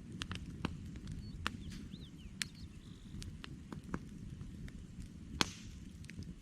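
Wood campfire crackling: irregular sharp pops and snaps over a low, steady rumble of burning logs. The loudest pop comes about five and a half seconds in, followed by a brief hiss.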